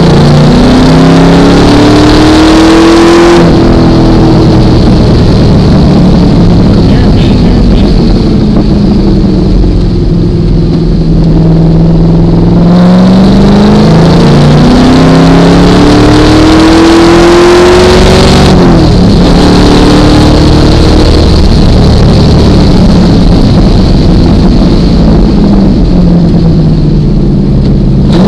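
1973 Datsun 240Z's engine under hard acceleration on a track. Its pitch climbs for about three seconds, then settles lower. It climbs again for several seconds and drops sharply about two-thirds of the way through as the driver lifts off, then runs on at a moderate, wavering pitch.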